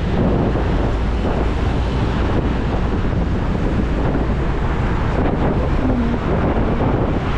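Wind rushing over the microphone of a motorcycle on the move, with the bike's engine and road noise underneath. A brief pitched note sounds about six seconds in.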